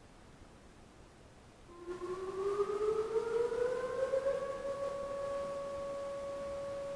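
Outdoor civil defense warning siren starting up about two seconds in, its tone rising in pitch as it winds up and then holding steady: the routine Wednesday-noon siren test.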